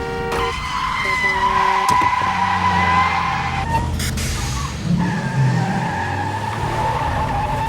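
Car tyres squealing in long skids as the car corners hard at speed, with its engine running hard underneath. There are two long squeals, the second starting about five seconds in, and a horn sounds briefly at the start.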